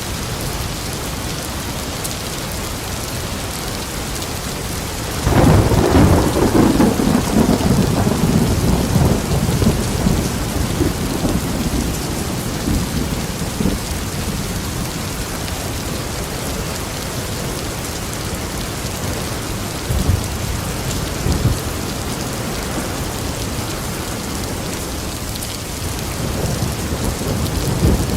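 Steady heavy rain falling, with a sudden loud rumble of thunder about five seconds in that slowly dies away, and a few fainter thunder rumbles later.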